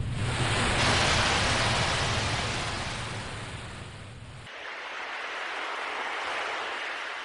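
Ocean waves breaking and washing in: one surge that peaks about a second in and slowly fades, then a second, softer wave from about four and a half seconds in. A low rumble under the first wave cuts off abruptly as the second begins.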